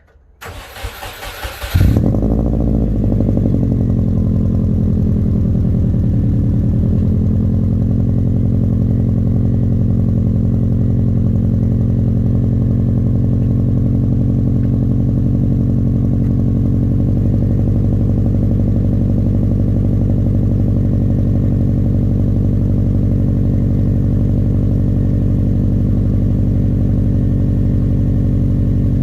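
Subaru Forester SF5's flat-four boxer engine cold-starting at −3 °C: the starter cranks for about a second and a half, the engine catches, flares briefly, then settles into a steady idle.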